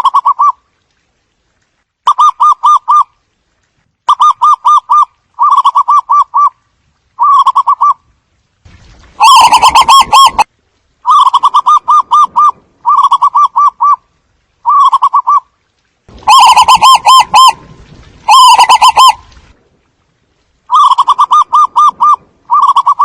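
Zebra dove cooing: a string of short, rapid stuttering trills, each a quick run of pulsed notes, repeated about once a second with short gaps. A few of the bursts, around 9 s and 16–19 s, are louder and distorted.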